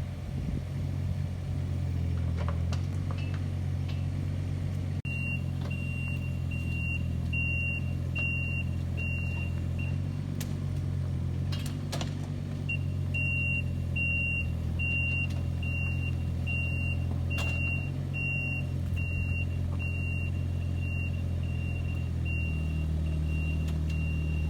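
Diesel engine of a 1.7-tonne Kubota mini excavator running steadily while it pushes a loaded trailer. From about five seconds in its travel alarm beeps about twice a second, pausing briefly around the middle, with a few faint knocks.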